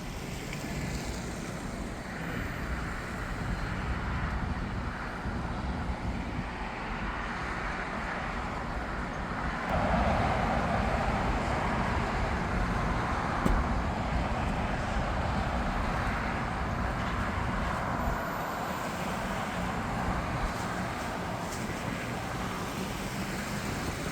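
Jet airliner engines rumbling steadily outdoors, growing louder about ten seconds in.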